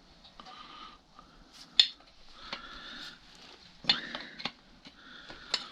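Metal spanners clinking and scraping against metal fittings during clutch hydraulics work, with a few sharp clinks and brief metallic ringing in between.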